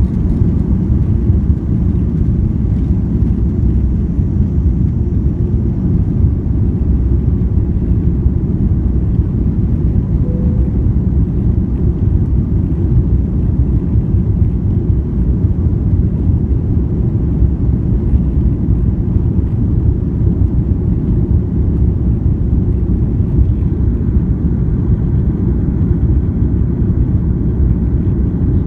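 Airliner's jet engines and airflow during takeoff, heard inside the passenger cabin as a loud, steady low rumble.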